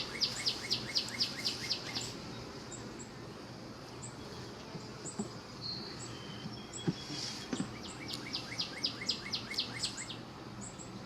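A songbird singing a quick series of about ten high, down-slurred notes, ending about two seconds in, then singing the same song again about seven and a half seconds in.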